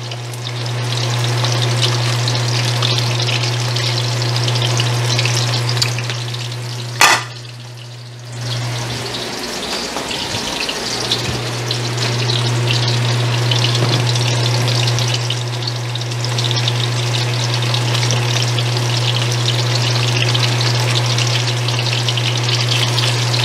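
Carrot and potato chunks sizzling as they fry in oil in a wok, a steady crackle over a continuous low hum. A sharp click about seven seconds in, after which the sizzle dips for a second or two and the hum briefly drops out.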